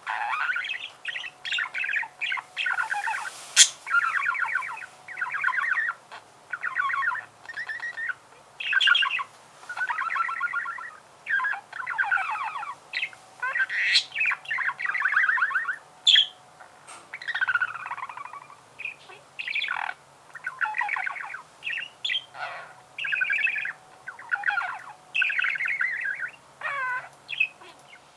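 Budgerigar warbling: a fast chattering song made of short phrases, each about half a second to a second long, with brief gaps between them. A single sharp click comes a few seconds in.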